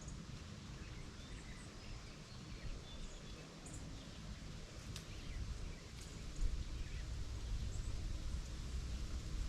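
Outdoor rural ambience: scattered faint bird chirps over a steady low rumble that grows louder about six seconds in, with a few faint ticks.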